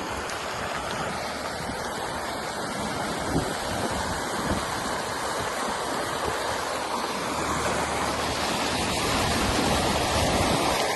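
Fast-flowing flood water rushing in a river, a steady roar of noise that grows a little louder near the end.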